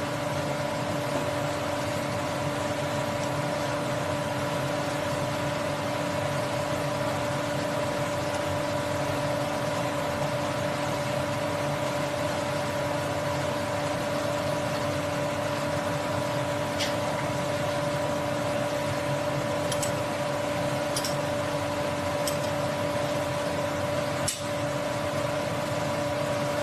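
SH30-2 woodworking milling machine running steadily, its motor and spindle giving a constant whine over a rushing noise, with a few faint clicks in the later part.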